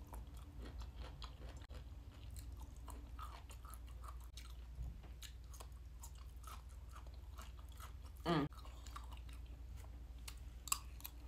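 Close-up mouth sounds of chewing lightly stir-fried broccoli and fried rice: soft crunches and small wet clicks. A brief louder hum about eight seconds in.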